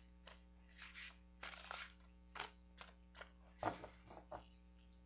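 Tarot cards being shuffled and handled: a run of short, irregular papery swishes and riffles that stops about four and a half seconds in.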